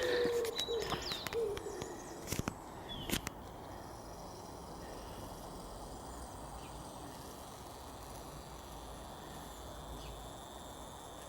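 Quiet outdoor ambience at dusk: a faint steady hiss, with a short low hoot-like call in the first second or so and two sharp clicks a few seconds in.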